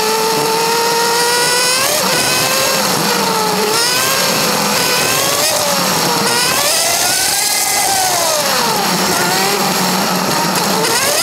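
Suzuki GSX-R750's inline-four engine under way, its revs climbing and dropping sharply with gear changes, then swelling and falling away as the throttle is opened and closed, with wind hissing over the microphone.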